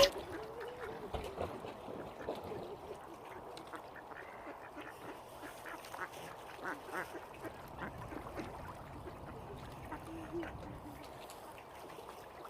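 Ducks quacking: a run of many short, irregular calls.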